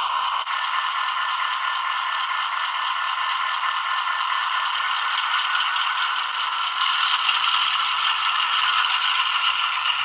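Powerline T class model diesel locomotive running on its track, with a steady rattling clatter from its wheels and mechanism. It gets slightly louder about seven seconds in, when a low hum joins.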